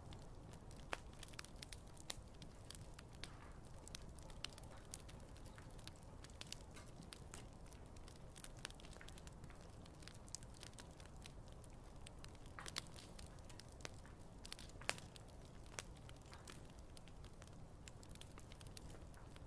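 Wood campfire crackling faintly, with frequent small pops and a couple of sharper snaps, over a low steady rumble.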